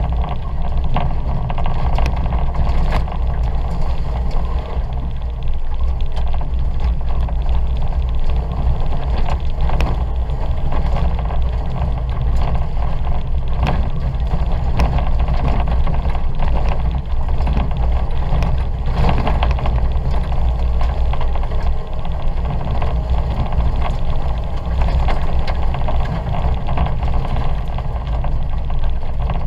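Ford Fiesta 1.2's four-cylinder engine running hard, heard from inside the cabin, over a steady low rumble of tyres on wet dirt. Frequent sharp clicks and knocks run through it.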